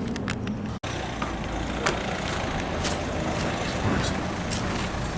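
Steady, loud roar of a jet aircraft passing overhead, with a brief dropout in the sound about a second in.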